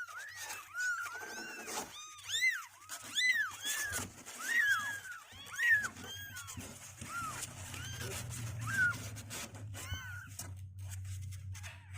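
Two-week-old kittens mewing: many short, high, arching mews, one after another, thinning out towards the end.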